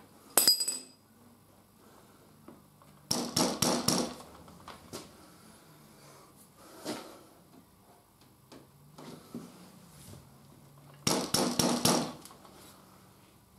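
Honda Africa Twin fork leg being worked by hand in its loosened triple clamp to nudge its height: four separate bursts of rapid metallic knocks and rattles, the two longest lasting about a second each, with quiet stretches between.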